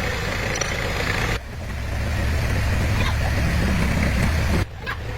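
Mini excavator's diesel engine running with a steady low rumble. The sound breaks off abruptly and picks up again twice.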